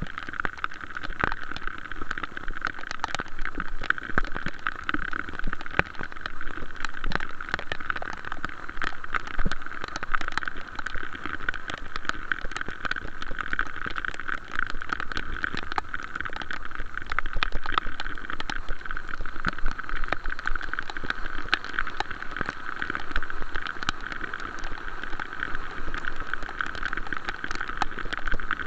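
Heavy rain falling, with dense, irregular raindrop ticks close to the microphone over a steady hiss.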